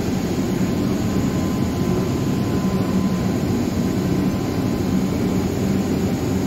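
Steady drone of a suburban electric train standing at the platform with its doors open, a low hum with a faint steady whine above it.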